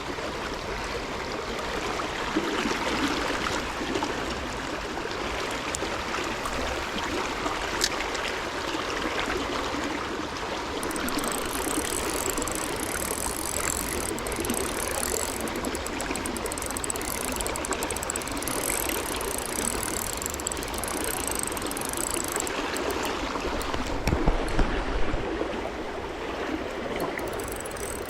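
Flowing stream water running steadily. Through the middle a faint, high-pitched repeating pulse sits above the water, and a few low bumps come about three-quarters of the way through.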